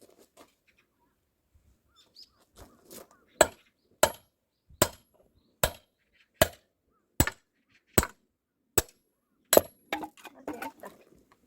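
Nine sharp, evenly spaced blows of a striking tool on wood, about one every 0.8 seconds. Several leave a faint metallic ring.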